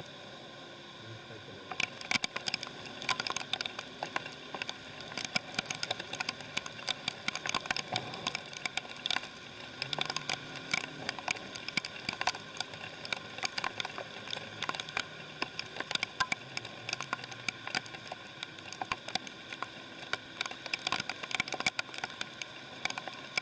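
Rain pattering: a dense, irregular spatter of drops ticking close by, starting about two seconds in.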